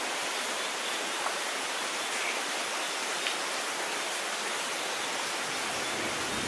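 Steady hiss of rainfall with a few faint drop ticks. A low rumble of thunder begins to build right at the end.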